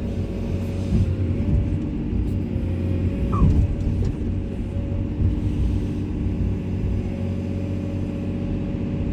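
Komatsu excavator's diesel engine running steadily under work, with a short high squeak about three seconds in.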